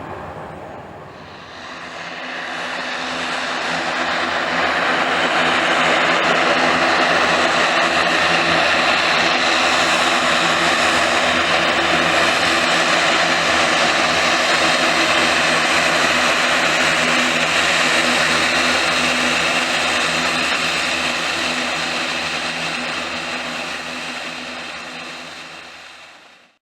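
Twin turboprop engines and propellers of a Dornier 328 airliner landing, a steady drone over a rushing noise. The sound builds over the first few seconds, holds loud for a long stretch, fades slowly and then cuts off suddenly near the end.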